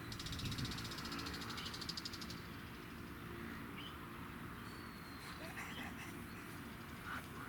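Wooden push-along baby walker toy rattling with a rapid clicking as its chick figure and wheels turn, stopping about two seconds in. Small birds chirp faintly.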